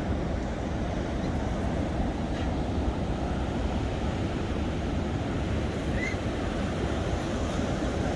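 Steady low rushing of wind and surf, with one brief faint high chirp about six seconds in.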